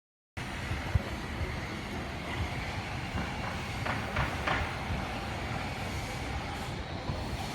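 A train running at a station: a steady rumble with a sharp knock about a second in and a few short, sharp metallic sounds around the middle.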